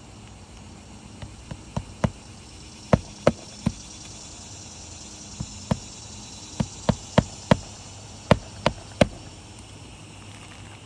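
Sharp knocks in short runs of two to four, about three a second within a run, typical of hammer blows on roofing nails in a shingle roof. A steady high insect buzz runs underneath.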